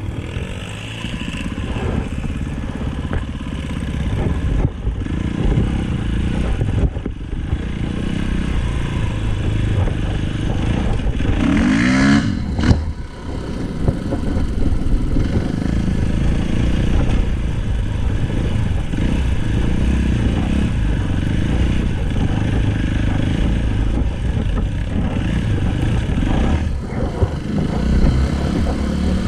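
Dirt bike engine running on the trail, its pitch rising and falling with the throttle. A brief louder, rising rev comes near the middle.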